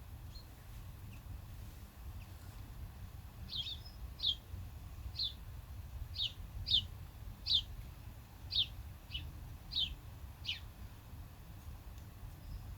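A songbird calling: a series of about ten short, high chirps, each sliding down in pitch, spaced unevenly over several seconds, over a steady low outdoor rumble.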